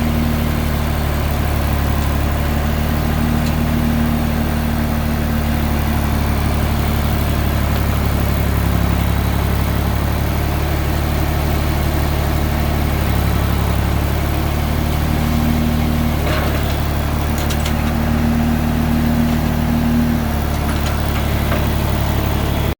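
A vehicle engine idling steadily, with a few faint clicks in the last third.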